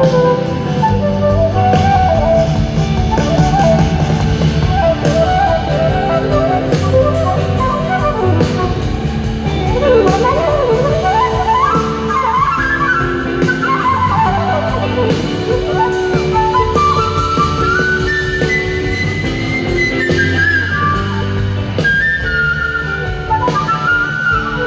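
Live rock band playing an instrumental break: a lead melody that glides up and down in long sweeps over bass and drums.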